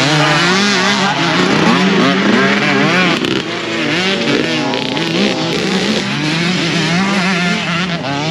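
Several motocross bikes racing on the track, their engines revving up and falling back over and over as they ride past.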